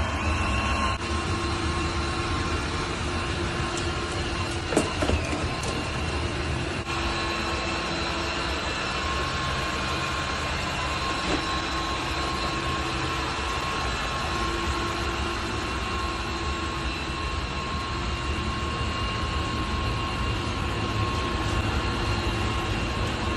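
Thamtu G10 robot vacuum cleaner running: a steady whir with a high whine from its suction fan and brushes, and a couple of sharp knocks about five seconds in.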